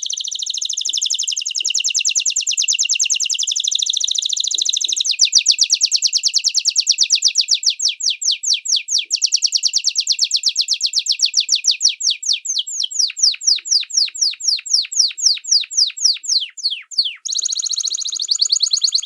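Small songbird singing a long, rapid trill of high repeated notes; partway through the notes separate into quick falling chirps that gradually slow, break off briefly near the end, then resume as a fast trill.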